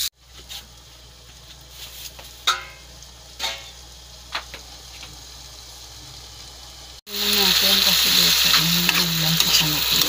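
Vegetables stir-frying in a wok. For the first seven seconds the pan is quieter, with a light simmer and a few short clinks; then loud, dense sizzling starts suddenly and continues.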